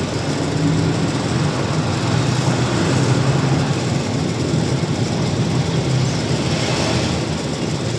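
Truck engine running steadily with road noise while the truck is driving, a low hum under a constant rush.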